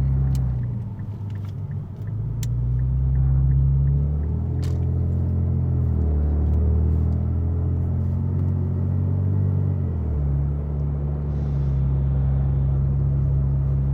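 Infiniti Q60's tuned twin-turbo V6 exhaust droning, heard from inside the cabin, its note falling and rising a few times as the car drives. A few sharp clicks come through.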